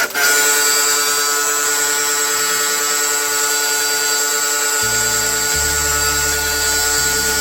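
Electric power tool motor running at a steady speed with a high hiss, starting abruptly. Low bass notes of background music join about five seconds in.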